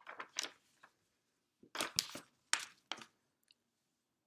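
A few short clicks and rustles of hands handling things close by, in three quick clusters.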